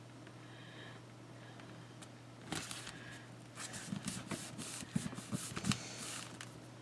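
Paper squares handled and pressed down on a craft table: a run of light rustles and taps starting about two and a half seconds in, over a faint steady hum.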